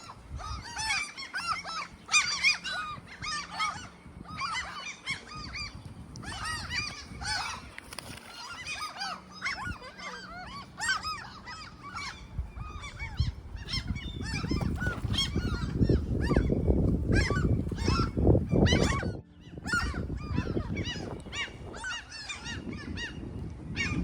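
A group of birds calling in quick, overlapping harsh calls, with strong wind buffeting the microphone as a loud low rumble for several seconds past the middle.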